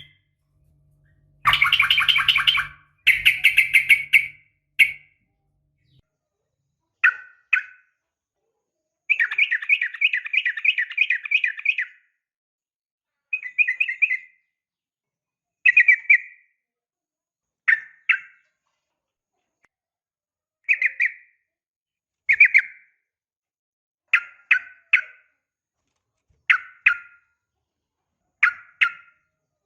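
Yellow-vented bulbul (trucukan) calls, presented as a female calling to a male. The calls come as bursts of rapid chattering notes: a long burst near the start and another about a third of the way in, then short double calls every couple of seconds.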